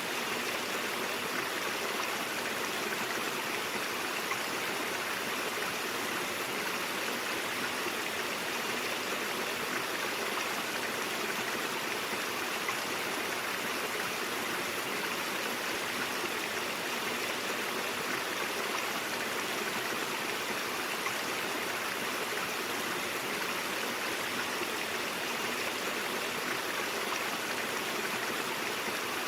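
Stream water flowing and rushing steadily, an even, unbroken splashing with no separate events.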